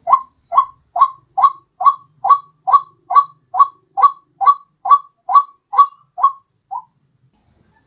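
White-breasted waterhen calling: a run of about sixteen short, even 'ruak' notes, a little over two a second, the last one fainter, stopping about seven seconds in.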